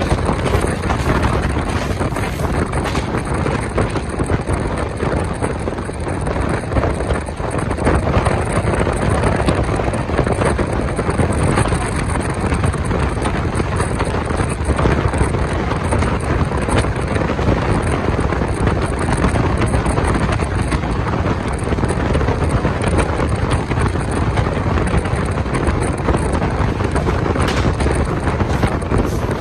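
Passenger train 19046 running steadily along the track, heard from on board, with wind buffeting the microphone.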